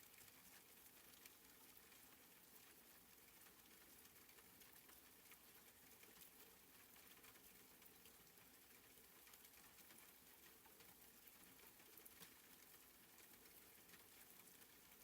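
Very faint, steady soft rain, a light patter of drops with tiny scattered ticks, barely above near silence.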